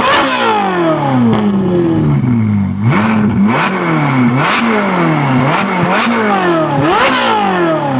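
Ferrari 458's naturally aspirated V8 revved hard through a titanium valved exhaust with free-flow front pipes, in a series of quick blips. Each blip climbs sharply and falls away slowly; after the first the revs take about three seconds to drop, then the blips come roughly once a second.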